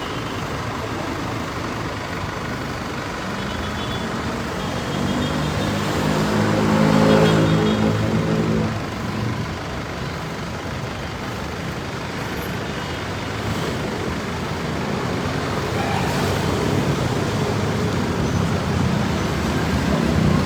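Road traffic noise, with one motor vehicle's engine growing louder as it passes close, loudest about seven seconds in, then fading.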